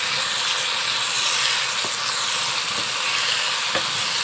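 Chicken pieces sizzling in hot oil in a wok as they are stirred with a wooden spatula; the water has cooked off, so the meat is now frying. Three light taps of the spatula against the pan come in the second half.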